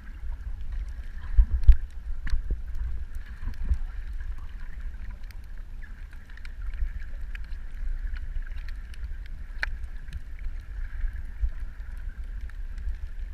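Underwater ambience picked up by a camera: a steady low rumble of water movement with a faint steady hum and scattered sharp clicks and crackles.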